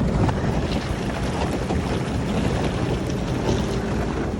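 Sea-Doo personal watercraft running under way: a steady engine rumble mixed with rushing water, with wind buffeting the microphone.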